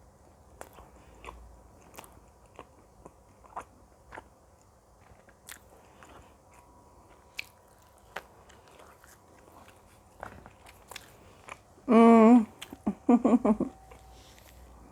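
Close-miked eating sounds: soft, scattered mouth clicks and chewing. Near the end comes a loud hummed voice sound, then a few shorter broken voice sounds.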